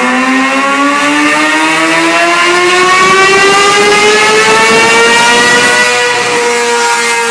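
2011 Kawasaki Ninja ZX-6R's inline-four engine under a wide-open-throttle dyno pull, its note climbing steadily in pitch for about six seconds. Near the end the pitch levels off and eases a little as the pull ends.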